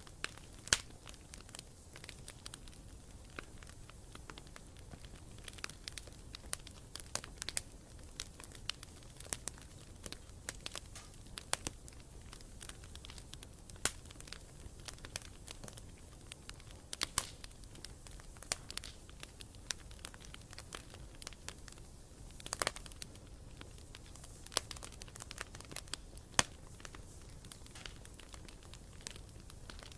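Wood campfire crackling, with irregular sharp pops and snaps over a soft steady rush of burning. There is a brief louder flurry of crackles about two-thirds of the way through.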